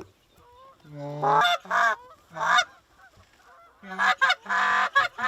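Canada goose honks and clucks, a short run of calls about a second in and a faster, denser run from about four seconds in.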